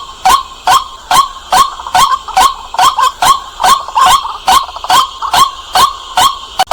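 White-breasted waterhen calling: a loud, harsh 'kwak' note repeated evenly about two and a half times a second.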